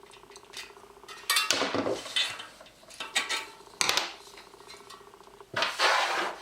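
Metal clinking and scraping as a bicycle wheel's quick-release skewer is unscrewed and drawn out of the hub: a few sharp clinks, then a longer scraping rattle near the end.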